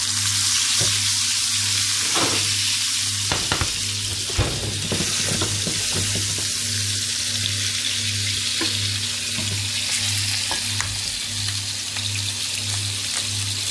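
Leberkäse patties and onions frying in a hot pan, a steady sizzle, with a few sharp knocks about three to four seconds in. A low hum pulses about twice a second underneath.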